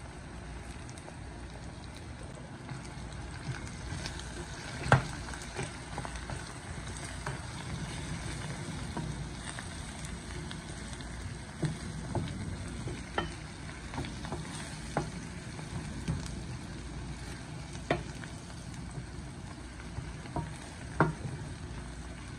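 Sliced onions, garlic cloves and green chillies sizzle steadily in oil in a steel pan while a wooden spatula stirs them, knocking against the pan a dozen or so times, loudest about five seconds in and near the end.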